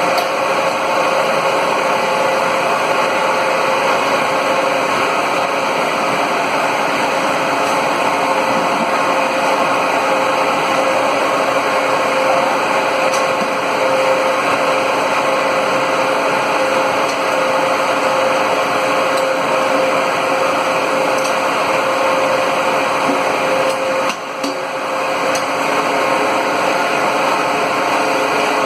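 Solid-fuel steam boiler plant running: steady machine noise with a constant mid-pitched hum, briefly dipping in level once near the end.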